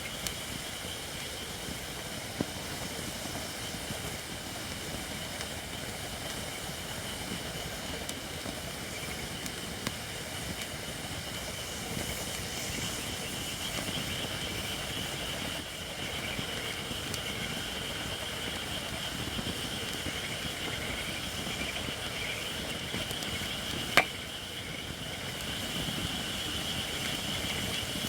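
Japanese white oak firewood burning in a campfire, hissing steadily as moisture steams out of the not-yet-dry wood, with a few small crackles and one sharp pop near the end.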